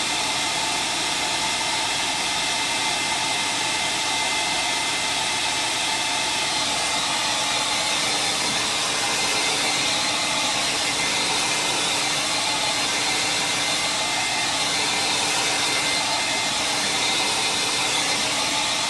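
Hand-held dryer blowing steadily to dry wet paint, with a constant whine on top of the rushing air.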